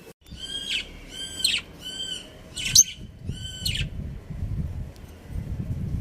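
Budgerigar calling: a run of about five short, evenly repeated chirps with a clear pitch and overtones, spaced a little over half a second apart. Then a low rumbling noise for the last couple of seconds.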